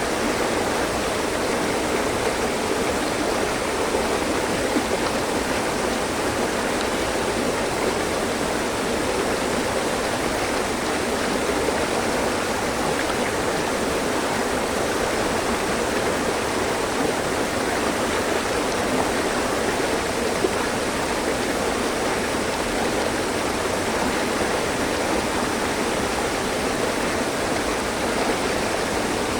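Mountain stream flowing steadily over rocks: a continuous rush of water, unchanging throughout.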